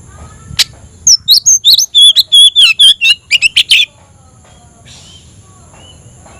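Oriental magpie-robin (kacer) singing a loud, rapid run of varied whistled and chattering notes for about three seconds, after a single sharp click. A steady high-pitched whine runs underneath.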